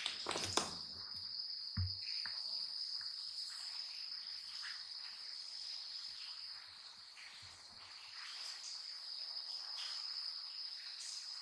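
A steady high-pitched chorus of night insects such as crickets, unbroken throughout, with a few sharp clicks in the first second and a dull thump just under two seconds in.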